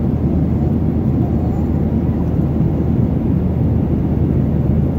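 Steady low rumble inside an airliner's cabin: the engines and airframe noise of a jet, with no sudden change.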